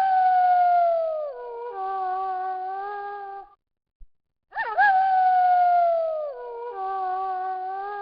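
Wolf howling: a long howl that swoops up, slides slowly down in pitch and levels off into a steady held note, stopping about three and a half seconds in. An identical howl starts again about a second later, a repeated loop of the same recording.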